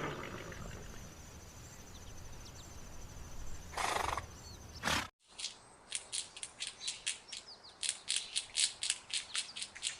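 Horse clip: a low steady outdoor hum with faint bird chirps, then a short, breathy, snort-like burst about four seconds in. After a sudden cut, a run of sharp clicks comes about two to three times a second.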